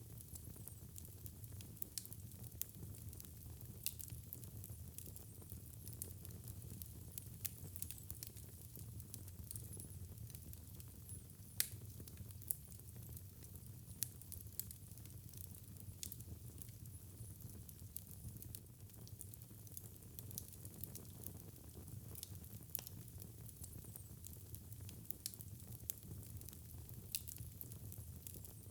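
Fireplace fire crackling: irregular sharp pops and snaps over a low steady rumble of burning, with one louder pop about twelve seconds in.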